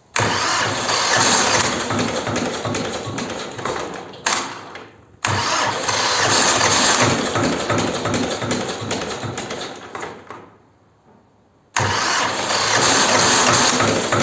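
A T-25 tractor's two-cylinder air-cooled diesel being started cold after a winter of sitting, in three loud spells of rapid pulsing cranking and firing. The spells start abruptly, the first at the beginning and the next about five seconds in; the second fades away before a short lull, and the third starts near the end.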